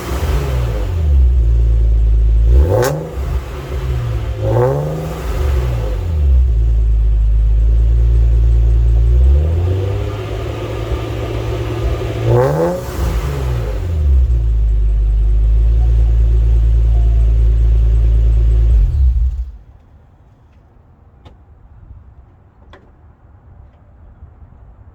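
Supercharged Lexus RC350 V6 with aftermarket headers and RC F mufflers, blipped several times so the exhaust note rises and falls, then running steadily. The engine sound cuts off suddenly about 19 seconds in.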